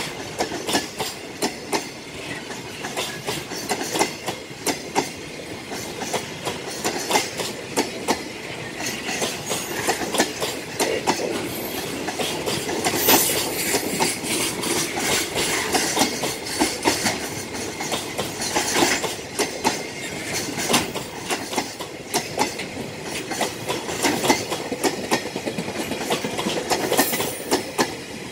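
Container wagons of a freight train rolling past: a steady rolling rumble packed with quick clicks and clatter as the wheels cross rail joints. Most of the flatcars passing are empty.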